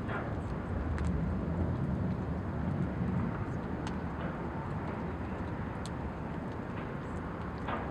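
Wood fire crackling with scattered sharp pops, over a steady low rumble that swells for the first few seconds.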